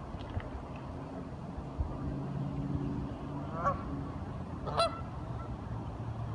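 Waterfowl giving two short calls about a second apart, the second louder, over a steady low hum.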